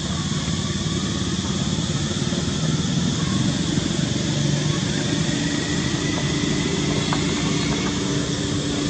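Steady motor-vehicle engine hum with road noise.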